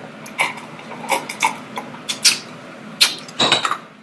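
Close-miked eating sounds from a seafood boil: a string of short wet smacks and clicks from chewing and handling saucy food, with a quick flurry of them near the end.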